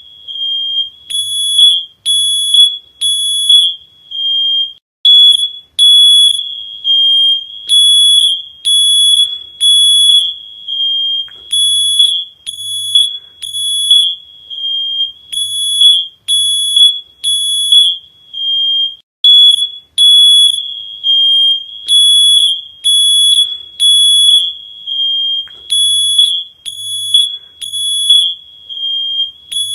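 Electronic alarm beeping: a loud, high-pitched single tone sounded over and over in short beeps, with a few longer held tones, in an uneven rhythm of roughly one to two beeps a second.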